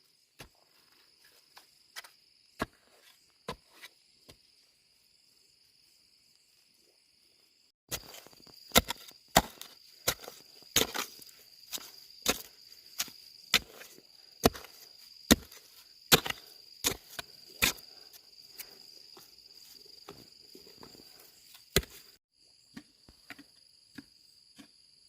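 Repeated sharp knocks and strikes of hand work, a few scattered at first, then about one to two a second from about 8 s until they stop abruptly near 22 s, over a steady high buzz of insects.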